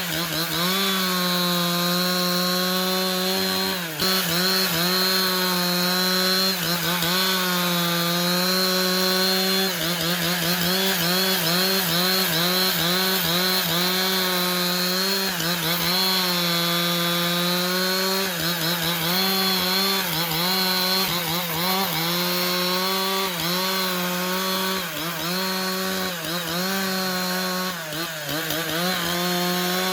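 A motor-driven saw cutting wood: a steady, high engine note that sags briefly and recovers over and over as the blade bites into the timber under load.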